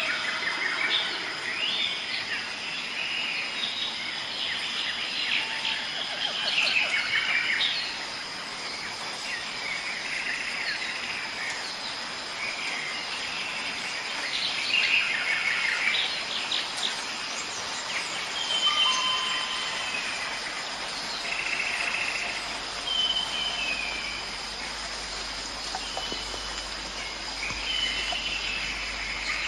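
Several songbirds singing and chirping in overlapping phrases, some as clear whistled notes held briefly, over a steady high thin tone and a soft background hiss.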